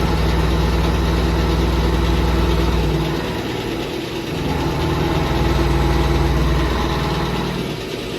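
Vertical machining centre running during a milling job: a steady mechanical hum with several steady tones. It is louder for about three seconds, drops back, swells again for another three seconds or so, and drops back near the end.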